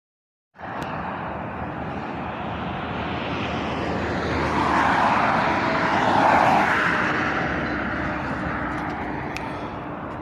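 Road traffic going by, with one vehicle passing close: the noise cuts in suddenly just after the start, swells to its loudest about six seconds in, then fades.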